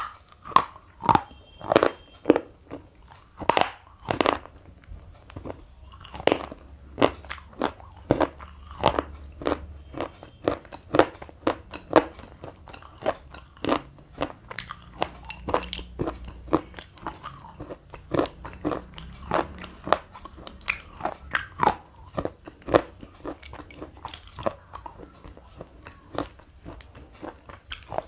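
Slate pencil being bitten and chewed: a run of sharp, crisp crunches, about two a second, the loudest in the first few seconds.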